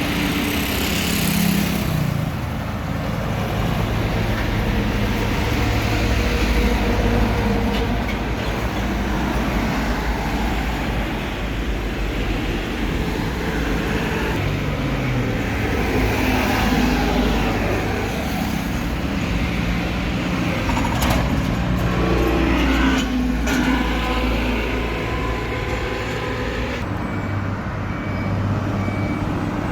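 Road traffic with trucks going by, their engines running and rising and falling in pitch as they pass. A short run of beeps sounds near the end.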